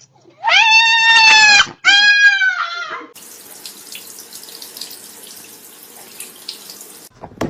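An animal gives two long, loud, high calls one after the other, then water runs steadily from a tap for about four seconds and stops.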